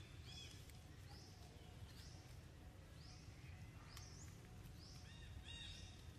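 Faint ambience: a bird repeats a short rising call about once a second over a steady low rumble, with a few steady-pitched notes joining near the end.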